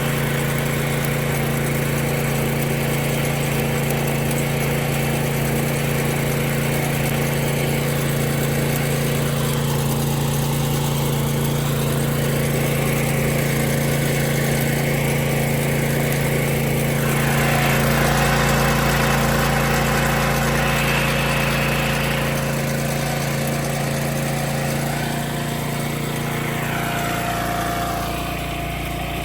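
A small engine running steadily at a constant speed. A rougher, noisier hiss rides over it for a few seconds past the middle.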